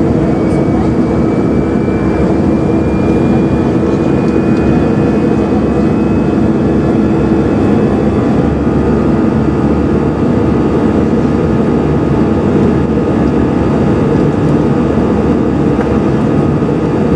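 Steady cabin noise of an Airbus A320 in flight: a constant drone of engines and rushing air with a steady low hum. A faint high tone climbs slowly through the first half.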